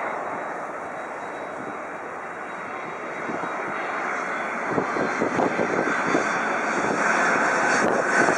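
Jet airliner engines passing overhead, a steady rushing roar that grows louder through the second half.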